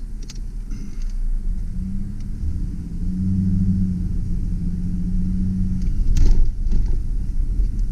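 2001 Mazda B4000's V6 pickup driving in four-wheel drive high: steady low engine and road rumble, with an engine hum that rises slightly about two seconds in and holds until about six seconds in. A short knock follows just after.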